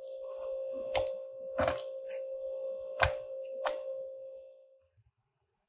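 Raw chicken breast pieces laid and pressed down on a wooden cutting board by hand: a few soft taps and slaps, roughly a second apart, over a steady tone that stops about five seconds in.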